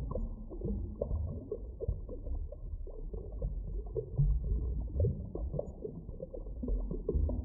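Muffled underwater ambience: a steady deep rumble full of small crackles, pops and brief squeaky glides, with no high sounds at all.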